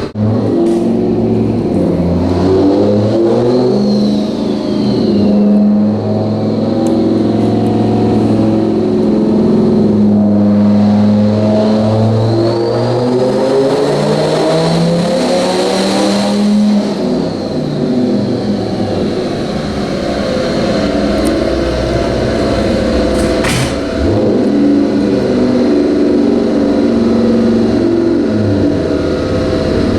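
Turbocharged 8.3 L Viper V10 in a Ram truck running hard on a chassis dyno, engine speed stepping up and down, with a turbo whistle that rises and then falls away. A single sharp crack is heard about three-quarters of the way through.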